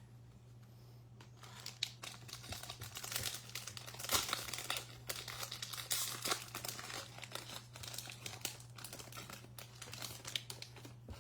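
A foil baseball card pack wrapper being torn open and crinkled, with dense crackling that starts about a second and a half in and is loudest around four and six seconds in.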